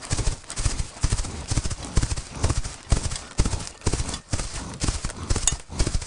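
Hooves of a running herd of red deer drumming on the ground: a dense, irregular clatter of many hoofbeats with heavy low thuds.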